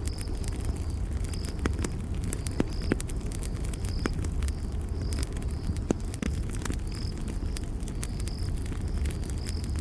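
Wood campfire crackling: scattered sharp pops and snaps over a steady low rumble of the flames. A high insect chirp repeats about once or twice a second throughout.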